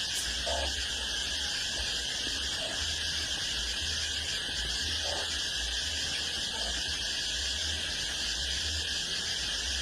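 A steady, high-pitched insect chorus of crickets or cicadas, with a low rumble underneath and a few faint short calls.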